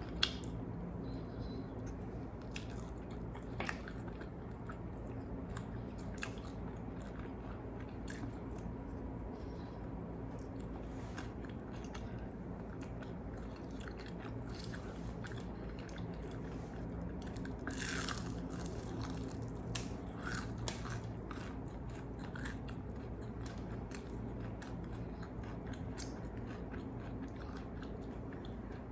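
Close-miked chewing and biting on crispy fried chicken wings, with scattered crunches of the breading and a louder crunch about 18 seconds in, over a steady low hum.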